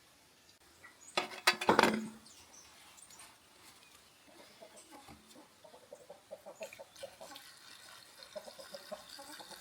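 A loud clatter of knocks about a second in, then chickens clucking in short, repeated calls.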